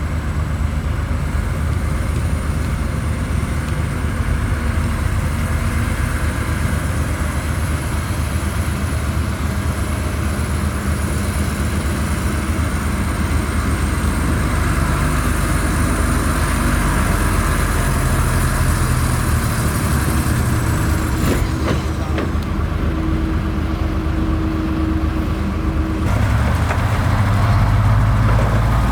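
Diesel engine of heavy road-building machinery running under load, a continuous low rumble with a faint high whine above it. The sound changes about three seconds before the end, becoming deeper and a little louder.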